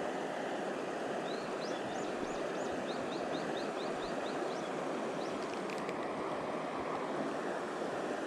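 A high-running mountain stream rushing steadily over rocks. A run of short, high rising chirps comes about a second in, and a few more just before six seconds.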